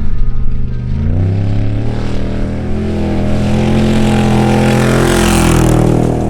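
Off-road race truck engine at full throttle, the pitch climbing about a second in and then held at high revs, with a rush of noise swelling near the end.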